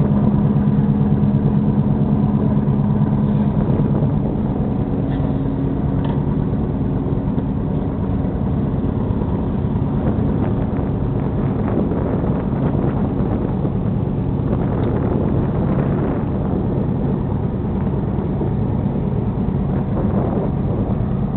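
A crew boat's engines running steadily underway, a low steady drone with a rushing noise over it, a little louder in the first few seconds.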